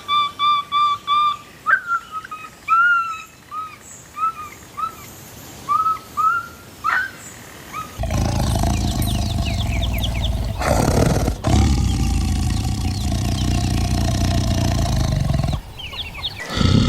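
Goose honking in short repeated calls for the first half. About halfway through, a loud, rough, sustained animal call takes over and runs for several seconds before breaking off.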